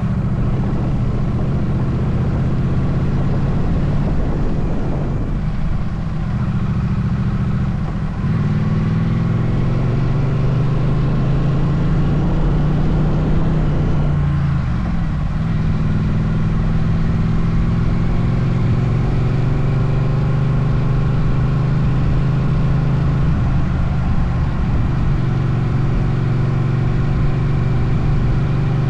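Motorcycle engine running under way on the road. Its pitch falls and climbs again about eight seconds in and again around fifteen seconds, as with gear changes or easing off and reaccelerating.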